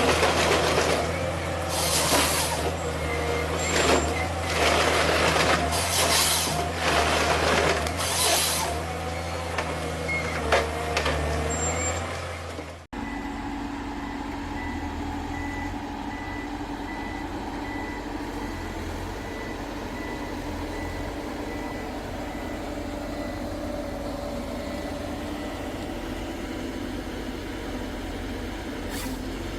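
A forestry harvester working: a diesel engine under load with loud hissing bursts every couple of seconds. About 13 seconds in the sound cuts to a steadier, quieter engine drone with a faint, evenly repeating beep.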